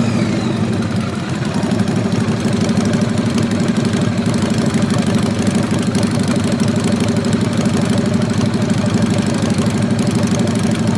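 Motorcycle engine idling steadily, a fast, even run of firing pulses.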